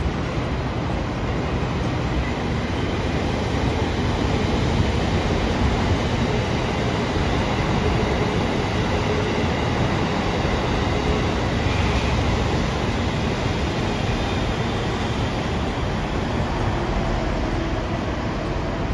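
A train running past, a steady rumbling rail noise that holds at an even level.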